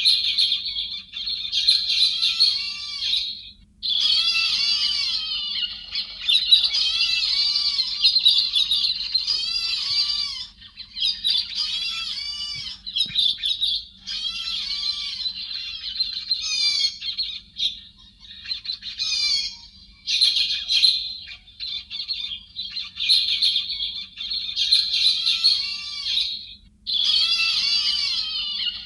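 Héc xoan birds calling: dense, overlapping runs of high arching call notes in long bouts, broken by short pauses about four seconds in and again near the end.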